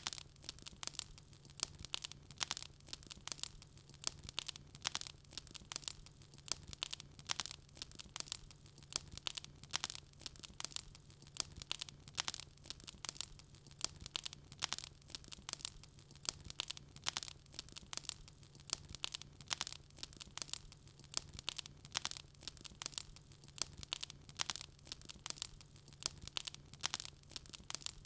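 Wood fire crackling: a dense, steady run of small sharp pops and snaps, several a second, over a faint steady low hum.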